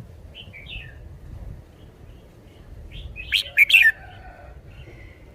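Red-whiskered bulbul singing: a soft short phrase near the start, then a loud, sharp burst of quick notes about three seconds in.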